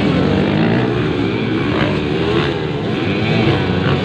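Several motocross bikes racing together, their engines revving up and down at different pitches over one another.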